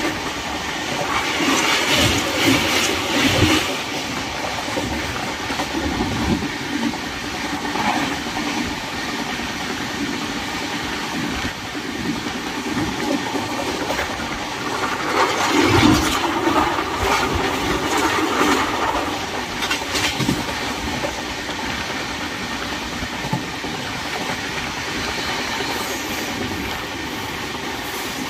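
Passenger train running along the track, heard from aboard through an open window: a steady rumble of wheels on the rails that swells louder about two seconds in and again from about fifteen to twenty seconds.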